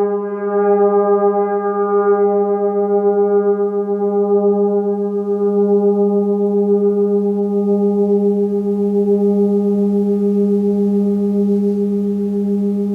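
A gong ringing with a long, sustained low hum and a slight wavering pulse in its loudness. Its higher overtones die away over the first five seconds or so while the deep tone holds steady.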